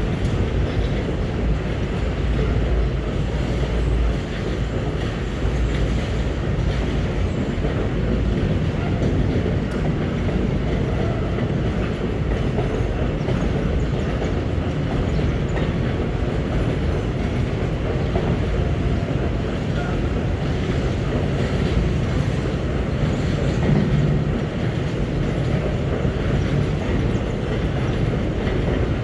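Empty GDT ore wagons of a long freight train rolling past, a steady rumble of steel wheels on rail.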